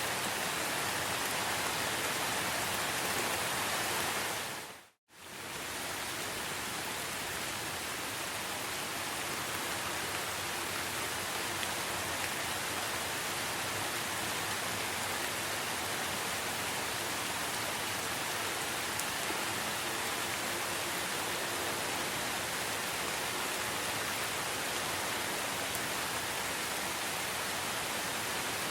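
Steady forest rain falling, an even hiss of drops. About five seconds in it fades out to a moment of silence and fades back in, like a loop joint in the recording.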